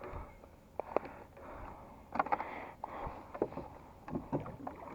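Irregular knocks, clicks and short swishing noises in a kayak as a just-landed fish of about three pounds is handled.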